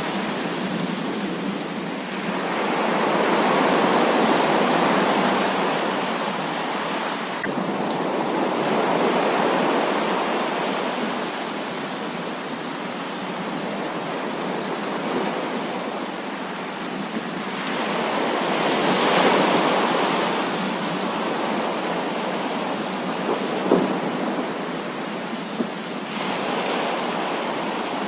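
Heavy rain pouring steadily in a thunderstorm, swelling and easing in slow waves of rolling thunder every several seconds. Two short sharp cracks come near the end.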